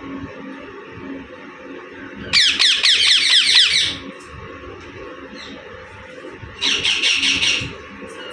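Pet Indian ringneck parakeet screeching in two bursts, each a rapid run of high falling notes. The first comes about two seconds in and lasts over a second and a half; the second, shorter one comes near the end.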